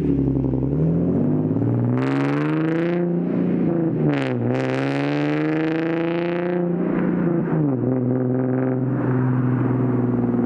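2009 Infiniti G37S's 3.7-litre V6 through Berk resonated test pipes and a 370Z Nismo exhaust, accelerating: the revs climb, dip at a gear change about four seconds in, climb again, then drop off and settle to a steady lower note for the last few seconds.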